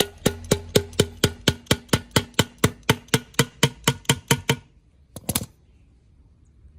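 Rapid, evenly spaced hammer blows on metal, about four a second, each with a short ringing tone. They stop after about four and a half seconds, then two quick blows follow.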